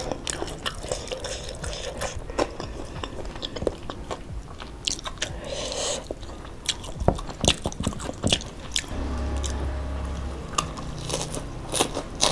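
Close-miked eating: wet chewing, biting and sharp crunches as rice and spicy stir-fried beef are eaten by hand. A steady low hum comes in for about a second and a half past the middle.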